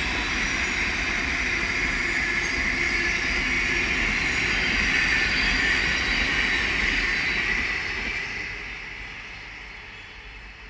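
Thameslink Class 700 electric multiple unit passing at speed: a steady rush of wheel-on-rail noise with a low rumble underneath. The sound dies away over the last few seconds as the train moves off.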